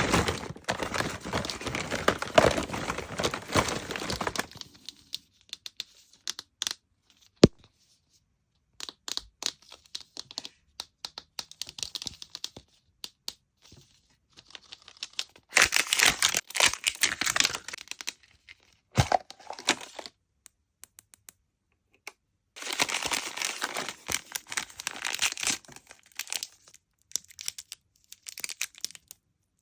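Plastic wrapping being crinkled and torn open in three long stretches, with small plastic clicks and taps in between and one sharp click about seven seconds in, from miniature toy groceries being unwrapped and handled.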